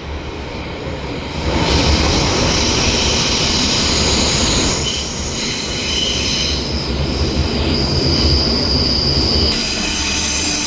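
Berlin S-Bahn train running on the rails, heard from inside the carriage: a steady rumble that grows louder about a second and a half in, with high wheel squeal whining over it as the train comes into the next stop.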